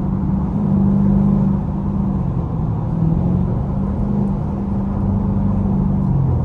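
Straight-piped Dodge Durango R/T V8 exhaust droning while cruising on the highway: a steady low note that dips and rises slightly in pitch.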